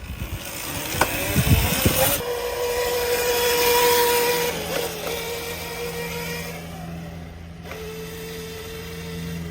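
Razor MX125 kids' electric motorcycle running on a Dewalt 20V lithium battery pack: its electric motor whines up in pitch as it gets going about two seconds in, then holds a steady whine. The sound is loudest around four seconds in and then fades as the bike moves off.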